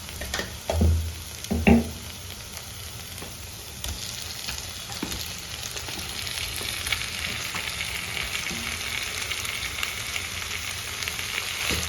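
Chicken pieces going into a pan of hot oily masala, with a couple of dull thuds in the first two seconds. Then a steady frying sizzle with stirring, slowly getting louder.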